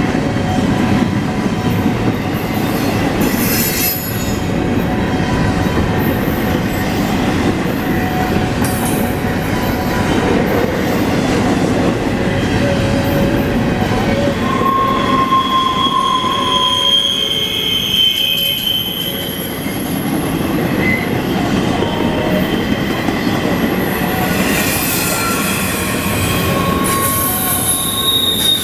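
Cars of a CSX container freight train rolling past: a steady, loud rumble of steel wheels on the rails, with brief high-pitched wheel squeals that come and go.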